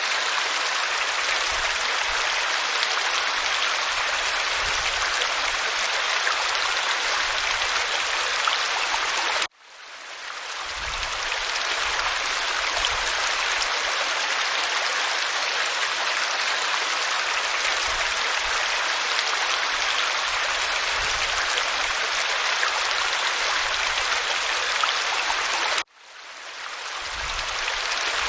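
Waterfall pouring over rock, a steady rushing hiss of water. Twice, about nine seconds in and near the end, it cuts out abruptly and fades back up over a second or two.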